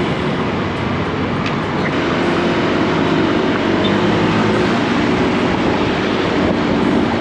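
Honda Click 160 scooter under way in traffic: a steady engine drone mixed with a continuous rush of wind and road noise.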